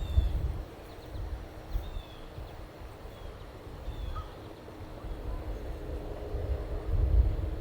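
Wind buffeting the microphone in gusts, strongest at the start and again near the end, while a small bird calls with short high falling chirps every second or so.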